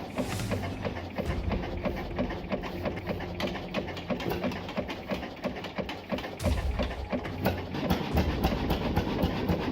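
Swedish 35-horsepower crude oil engine running, a fast, even beat of knocks over a low rumble. The rumble grows heavier about two-thirds of the way through.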